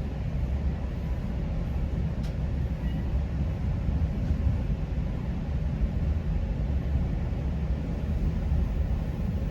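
Steady low rumble of a GO Transit commuter train running along the track, heard from inside a passenger coach, with a faint click or two.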